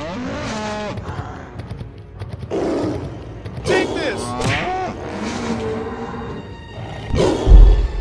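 Cartoon fight sound effects over background music: several animal roars and grunts, then one heavy thud about seven and a half seconds in as the tiger is knocked to the ground.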